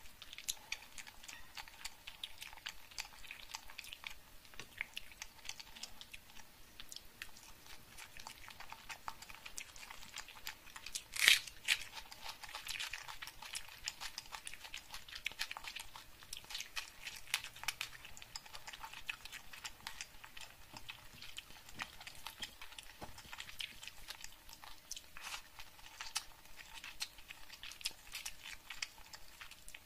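Close-miked eating: crunching and chewing of crisp fried fish and rice, with many small wet clicks and crackles, and one much louder crunch about eleven seconds in.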